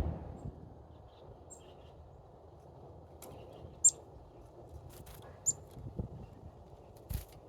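Small birds at a feeder giving a few brief, very high chirps that drop quickly in pitch, about four and five and a half seconds in, among scattered sharp clicks.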